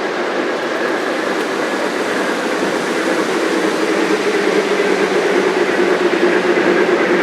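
O gauge three-rail model freight train running along the track, a steady whirring rumble of wheels and motor that grows slightly louder toward the end.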